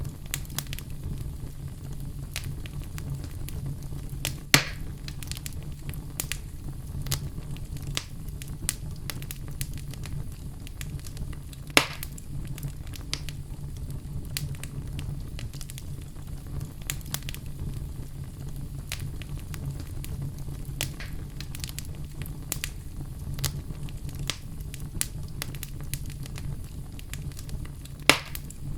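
Oak logs burning in a fireplace: a steady low rumble of flame with frequent small crackles, and three loud pops spread through, at about 4, 12 and 28 seconds in.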